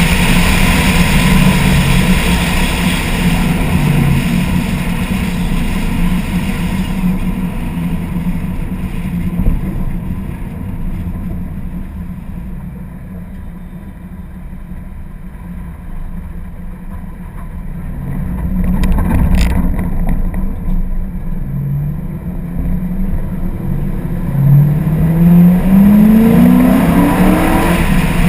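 1999 Mustang Cobra's V8 running under heavy wind noise buffeting a GoPro in its sealed case while driving. The sound eases off to a quieter stretch in the middle, then the engine pitch climbs several times in a row near the end as the car accelerates.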